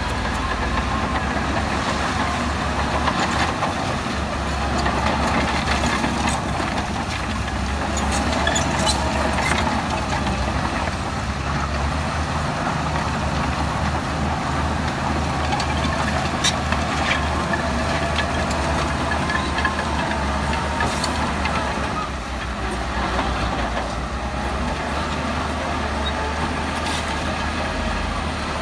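Heavy diesel earthmoving machinery running steadily under load, a deep engine rumble with a wavering mid-pitched whine, and sharp metallic clanks scattered through it.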